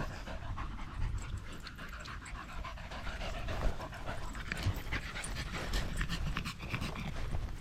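Dog panting close by, with scattered light clicks and rustles.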